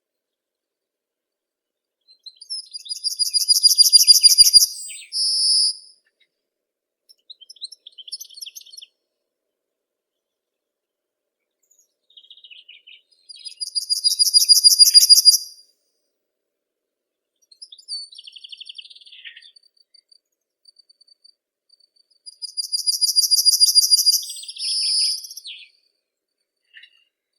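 A songbird singing: three loud phrases about ten seconds apart, each a fast, high trill that swells in loudness and ends in a short separate note, with softer twittering between them.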